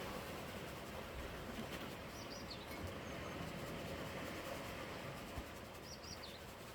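A bird chirping twice, each time a quick cluster of high notes, a few seconds apart, over a steady rushing background noise.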